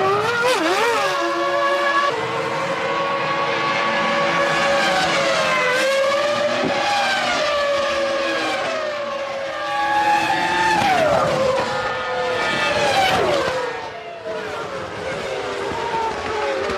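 1999 Formula One cars' 3.0-litre V10 engines screaming at high revs, the pitch climbing and dropping sharply through gear changes as the cars accelerate and brake.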